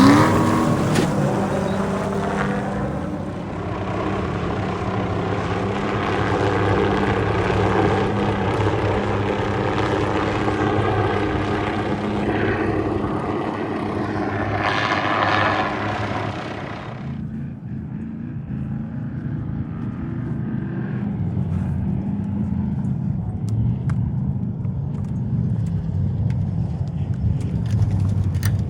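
Engines of off-road race vehicles running hard past the course, loud for the first two-thirds, then dropping away about seventeen seconds in to a quieter, steady engine drone.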